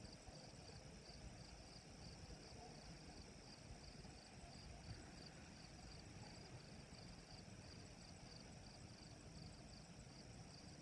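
Faint crickets chirping: a steady high trill with a pulsing chirp repeating about three times a second.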